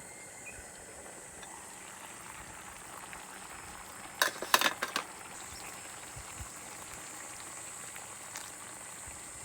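A pot of ara-ni simmering over a campfire, with steady bubbling and sizzling. A quick run of sharp clicks comes about four seconds in.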